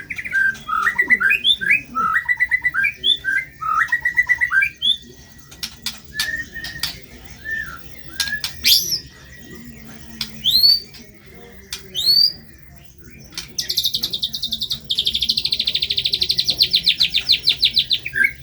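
White-rumped shama (murai batu) singing a loud, varied song: quick whistled phrases, then sharp upward-sweeping notes, then a long fast trill that starts about thirteen seconds in.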